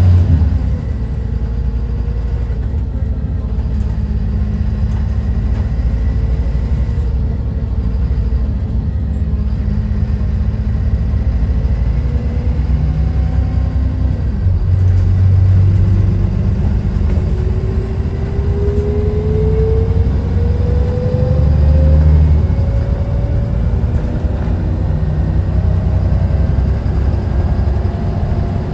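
Dennis Trident 2 double-decker bus with a replacement engine, running under way as a deep steady rumble that swells louder twice. Through the second half a whine rises slowly in pitch.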